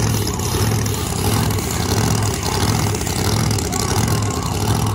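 Drag-race engines idling, a supercharged Hemi Dodge Challenger and a ProMod car: a steady, loud low rumble with a regular pulse.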